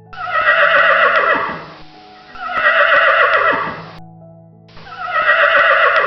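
Horse whinnying three times, each neigh about two seconds long and falling away at the end, over steady background music.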